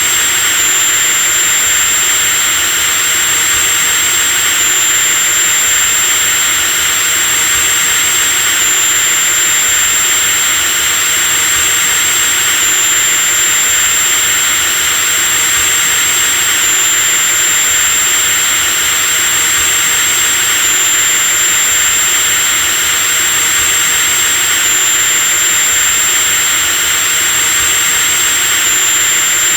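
Electric drill running continuously at a steady speed: a high, even motor whine over a hiss, with a slight hitch in the whine about every four seconds.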